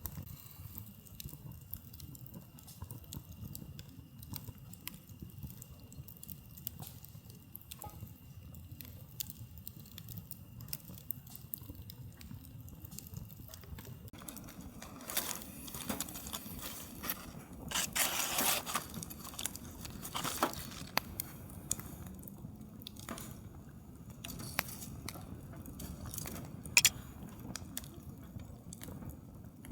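Wood campfire crackling, with scattered sharp pops over a low steady rumble, and a stretch of louder rustling noise about halfway through.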